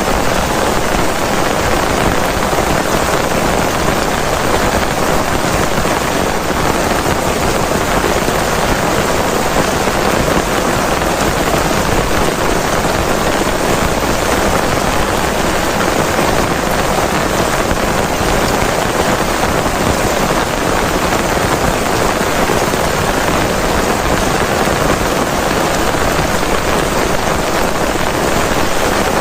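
Heavy rain falling steadily, a dense, unbroken hiss of rain pattering on surfaces.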